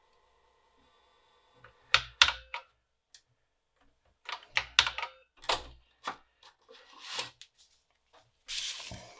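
Keys clacking on a BBC Micro keyboard, irregular keystrokes in small groups with dull knocks under them. A faint steady whine stops about two seconds in, and there is a short rustle near the end.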